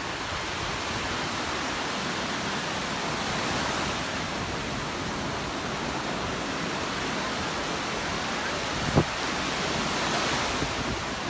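Surf washing onto the beach, a steady rush that swells and eases, with one brief knock about nine seconds in.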